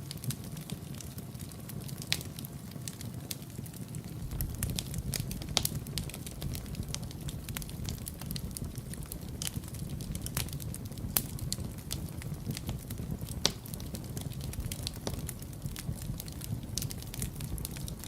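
Fire in a fireplace crackling: a steady low rush of flame under frequent sharp pops and crackles. Two louder pops come about five and thirteen seconds in.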